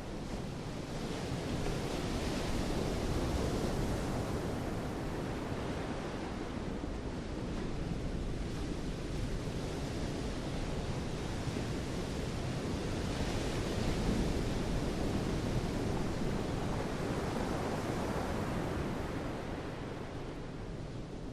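Sea surf washing in with wind, a steady rushing that swells twice, a few seconds in and again past the middle.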